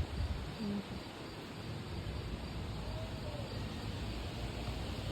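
Crickets chirping as a steady background hiss, with a low rumble underneath.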